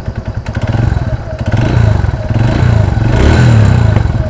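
TVS Radeon BS6's single-cylinder engine idling, then lightly revved and let fall back near the end, with a piston noise from inside the engine at low throttle. The mechanic puts the noise down to the piston, in an engine that had run low on oil.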